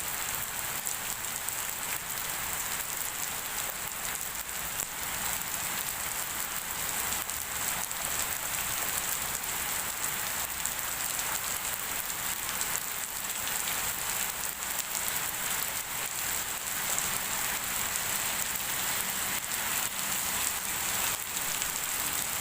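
Heavy rain falling steadily, a dense hiss of drops striking the ground and nearby surfaces. This is the first downpour after a long dry season.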